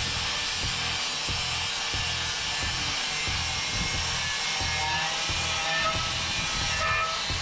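Rhythmic rasping and scraping on the steel of a hoe, about three strokes a second, like hand filing or brushing rust off the blade.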